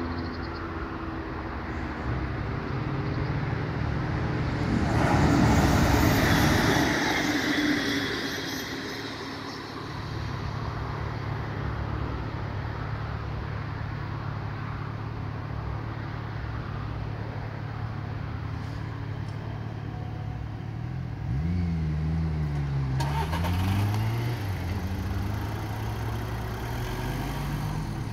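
Car engines idling steadily in a queue of road traffic, with a louder passing sound that swells and fades about five to nine seconds in. Later, about twenty-two seconds in, an engine or motor sound rises and falls in pitch.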